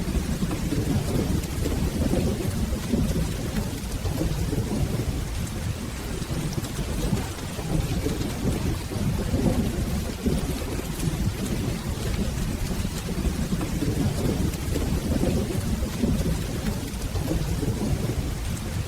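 Steady rain with a continuous low rumble of soft, rolling thunder.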